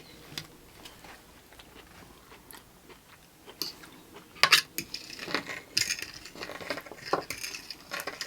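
Scattered clinks and scrapes of cutlery against dishes as food is scooped and served, sparse at first and busier from about halfway.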